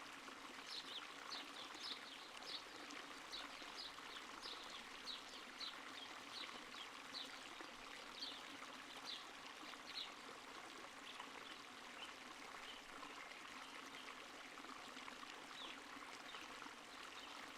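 Small stream flowing and trickling quietly. Over it, a faint high chirp repeats about twice a second, thinning out after about ten seconds.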